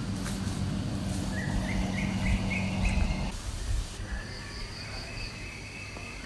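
Birds chirping in short repeated phrases over a steady low hum; the hum cuts off about three seconds in, leaving the chirps over a quieter background.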